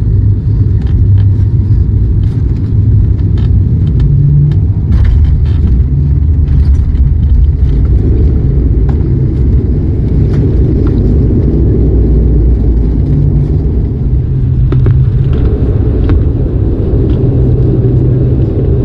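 Cabin noise in an ATR turboprop airliner: a loud, steady, deep rumble from the engines and airframe, with faint scattered rattles and clicks.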